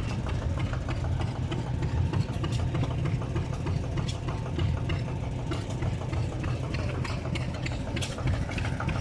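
An engine idling steadily, with a constant low hum and faint ticking throughout.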